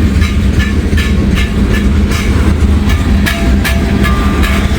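Freight train cars rolling past close by: a loud, steady roar and rumble, with wheels clicking over the rail joints several times a second.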